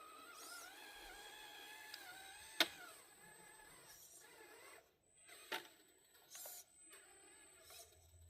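Small electric motor and gears of an RC truck whining faintly, rising slightly in pitch, then falling quiet. Two sharp clicks or knocks follow, one about two and a half seconds in and one about five and a half seconds in.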